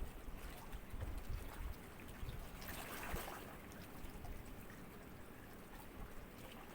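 Small sea waves lapping gently, with one soft wash swelling and fading about three seconds in.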